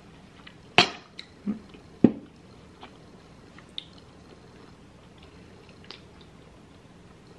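Close-miked chewing, with a few sharp clicks and knocks as a drink can is handled. The loudest knocks come about one and two seconds in, with small ticks later.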